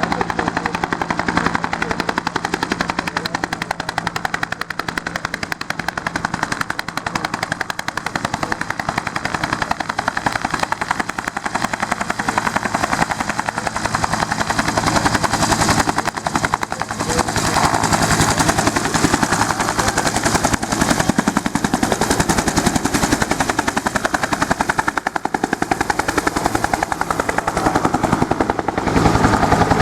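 UH-1 Huey helicopter running, its two-bladed main rotor beating in a fast, steady pulse over the turbine's steady low tones. It gets louder about halfway through and again near the end.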